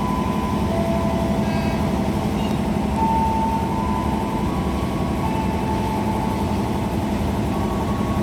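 A train standing at the station platform, its machinery giving a steady hum. Several thin whining tones sit above the hum and shift in pitch now and then.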